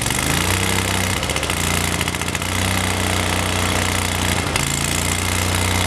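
Lincoln Ranger 10,000 welder-generator's engine running steadily just after a cold start, its pitch settling in the first second.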